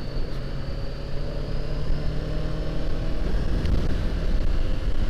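Honda CBR500R's parallel-twin engine running under way, with wind and road rumble, heard through a microphone inside the rider's helmet. The engine note climbs slightly over the first few seconds and gets a little louder about three seconds in.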